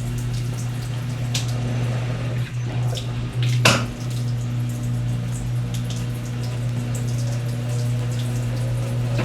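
Brastemp Ative! 11 kg washing machine running, water splashing and sloshing inside the drum over a steady low hum, with one louder splash about three and a half seconds in.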